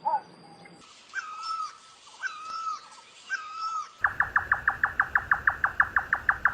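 Birds calling in spliced recordings: a short call, then three repeated whistled calls about a second apart, then from about four seconds in a fast even run of sharp notes, about seven a second.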